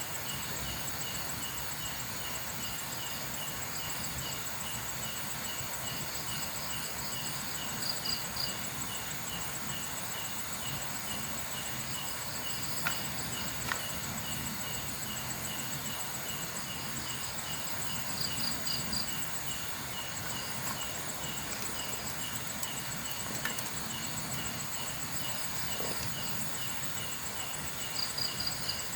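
Night insects such as crickets chirping: a steady pulsed chirp a few times a second, a continuous high trill, and every few seconds a brief, louder burst of rapid chirps.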